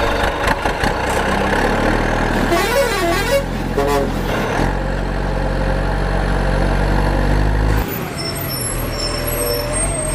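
Truck engine sound effect running steadily with a deep rumble. A wavering, horn-like tone rises and falls about three seconds in. The low rumble drops away about eight seconds in.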